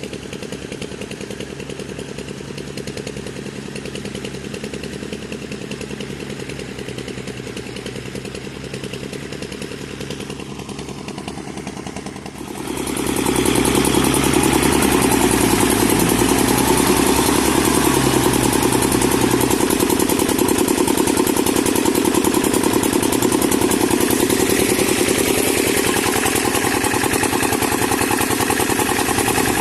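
Kubota MU4501 tractor's diesel engine running steadily with a rotavator. About twelve seconds in it gets suddenly louder and fuller, and it holds at that level.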